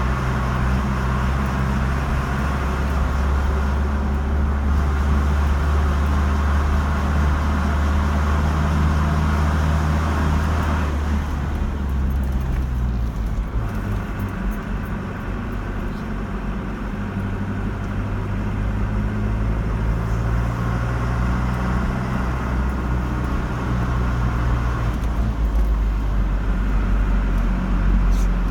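Car driving on a road: a steady engine hum under tyre and road noise. About eleven seconds in the road noise quietens and the engine note shifts.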